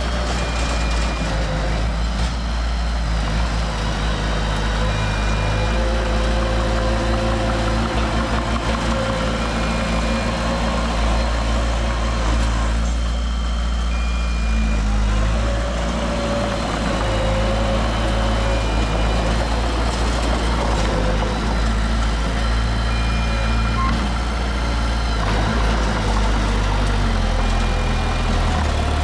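Heavy diesel earthmoving machinery running steadily at low revs. A short high beep sounds about every four to five seconds.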